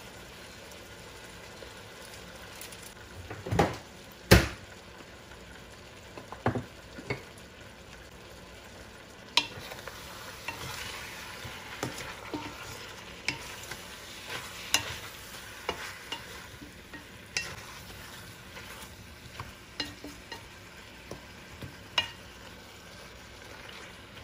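Chicken pieces sautéing in a stainless steel pan, a faint steady sizzle, while a wooden spatula stirs them, knocking against the pan now and then. The loudest knocks come twice, about three and four seconds in.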